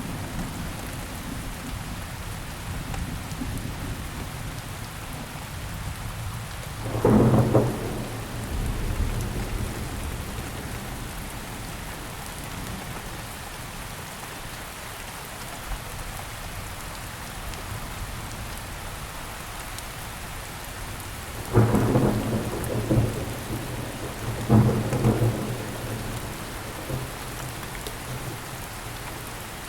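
Steady rainfall, with thunder rumbling loudly three times: once about a quarter of the way in, and twice more in the last third.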